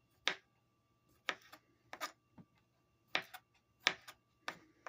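Knife cutting fruit on a cutting board: about eight separate sharp knocks of the blade against the board, unevenly spaced, roughly one or two a second.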